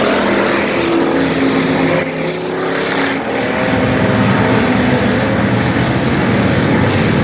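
Several race car engines running at speed around an oval track, their pitches overlapping; the sound shifts about three seconds in, the high end falling away and the low drone growing, as the cars go by.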